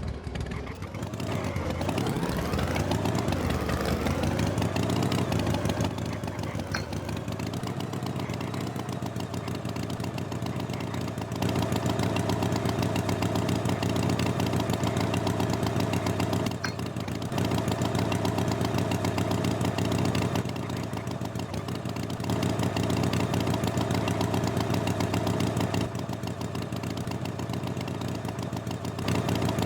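A motor engine starting up with its pitch rising and wavering, then running steadily. Its loudness steps up and down every few seconds.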